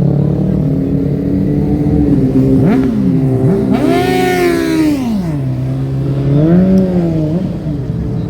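An engine idling and being revved several times. Its pitch swings down and up around three seconds in, rises to a long rev about four seconds in and falls back, then rises briefly again near seven seconds.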